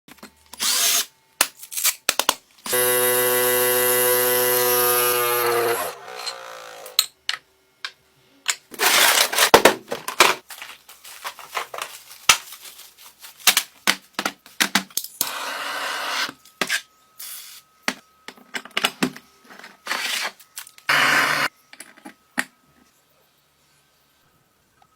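A handheld electric power tool, such as a drill, runs steadily for about three seconds, then winds down. Around it come scattered clicks and knocks and several short scraping bursts of hand work on the parts.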